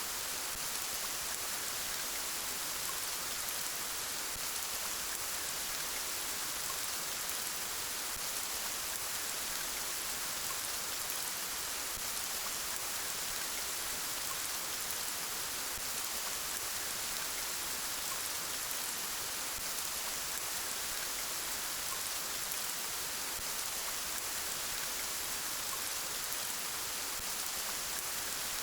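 Steady, soft rain falling, an even hiss of drops with no changes or single events.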